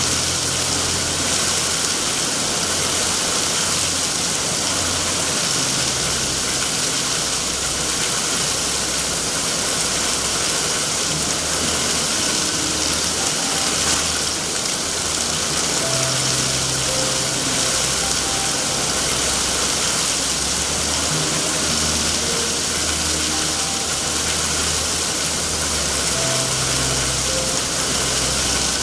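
Steady heavy rain, a dense even hiss, with low, slowly shifting tones beneath it.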